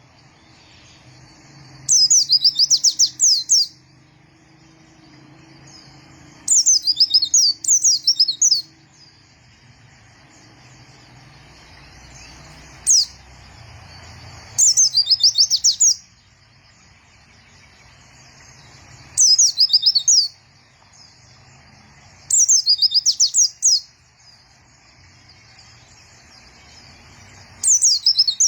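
White-eye (pleci) singing: loud phrases of rapid, high, twittering notes a second or two long, repeated about every four to five seconds, with a single short call in between.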